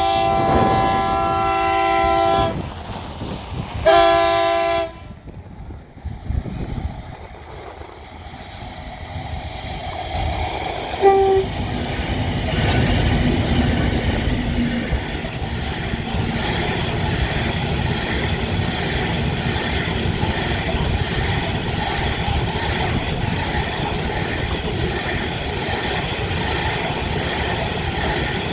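Diesel freight train horn, several tones sounding together: a long blast ending a couple of seconds in, then a short one about four seconds in. Then the loaded grain train rolls past, locomotive and wagons running steadily with a rhythmic clickety-clack of wheels over the rail joints.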